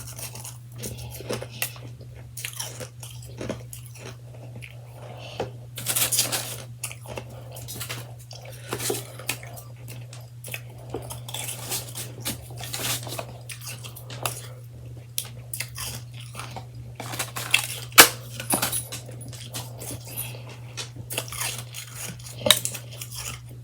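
Close-up chewing of freshly shaved ice: soft, irregular crunches one after another, with a sharper, louder crunch about 18 seconds in. A steady low hum lies underneath.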